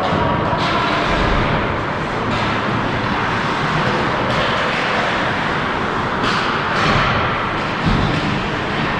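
Ice hockey rink ambience: a steady wash of noise with a handful of sharp knocks scattered through it.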